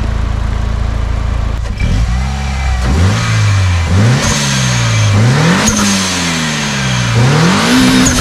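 Mitsubishi Lancer Evolution IX's turbocharged four-cylinder engine idling, then blipped through about four rev rises and falls while stationary. Around each throttle lift-off comes a hiss from the newly fitted open HKS SSQV IV blow-off valve venting boost to the air.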